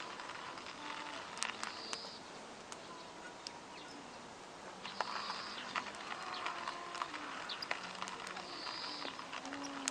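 Wood campfire crackling, with irregular sharp pops and snaps over a steady low hiss of burning. Faint short tonal calls come and go in the background.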